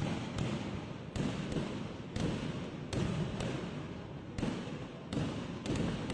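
Fireworks display: an irregular barrage of explosions, about two bangs a second, over a continuous rumble.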